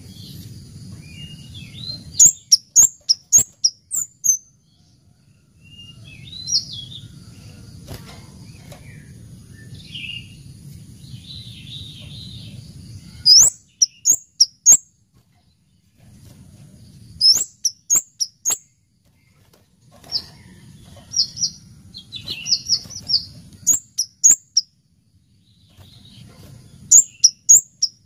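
Scarlet-headed flowerpecker calling: sharp, high chipping notes in quick bursts of about five to eight, repeated several times.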